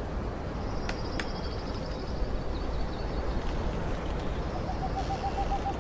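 Outdoor ambience after rain: birds calling over a steady low rumble of background noise. A rapid high trill runs through the first half, and a quick run of about eight lower notes comes near the end.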